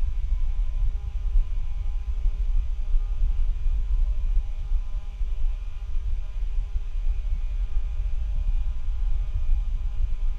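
Noise from a bad microphone: a loud, fluttering low rumble with a steady electrical hum and whine of several thin tones over it, with no speech.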